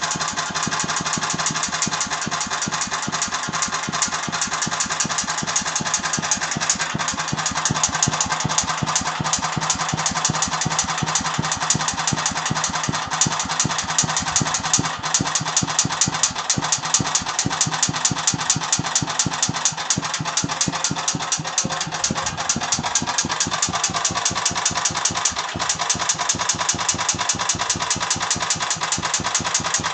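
Agros walk-behind tractor's petrol engine running steadily with a knock in the engine, a rapid, even clatter at every stroke. The owner does not know its cause.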